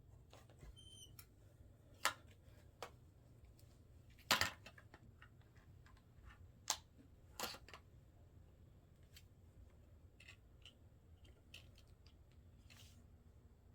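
Scattered light clicks and plastic knocks from handling laptop parts and tools, with a few sharper clacks about two, four and a half, and seven seconds in.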